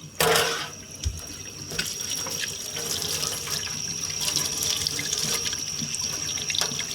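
Sink faucet turned on right at the start, then running steadily into the sink, rinsing a paint-stripping spray off a heated metal lantern part.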